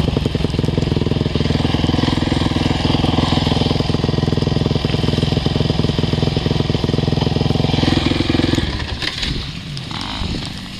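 Motocross bike engine running steadily at a fast idle, then cutting out nearly nine seconds in.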